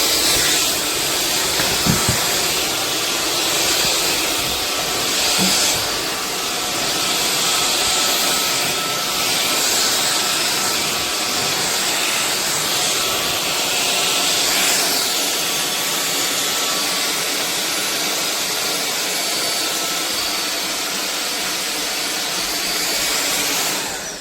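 SunSare X7A cordless stick vacuum running steadily: rushing air with a thin high motor whine. Near the end it is switched off and the motor winds down with a falling whine.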